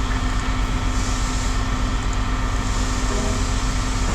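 Steady low mechanical hum with a constant tone and no breaks.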